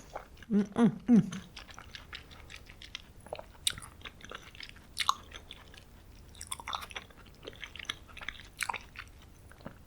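A person chewing a mouthful of soft green bean and potato stew close to the microphone, with many small wet mouth clicks. A few short hummed sounds come in the first second or so.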